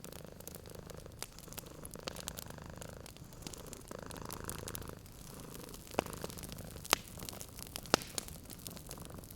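Domestic cat purring steadily in a low rumble over the crackle of a wood fire. A few sharp, louder pops from the fire come in the second half.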